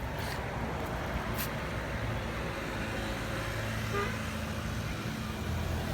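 A steady low engine hum with a constant background of noise.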